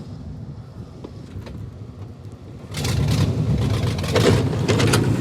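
Pickup truck's gasoline engine with headers, low and faint at first, then much louder from about two and a half seconds in, running with a deep, steady note.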